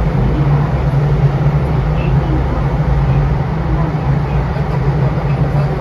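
E233-7000 series electric train running at a steady speed, heard from inside the car: a steady low rumble of wheels on rail and running gear.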